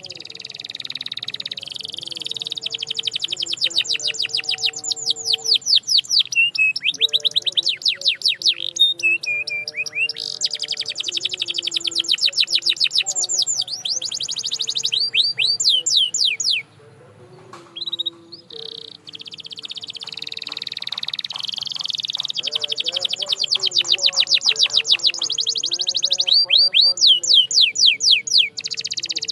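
Canary singing in long, fast trills of rapidly repeated high notes, with rolling and sweeping phrases and a brief pause a little past halfway.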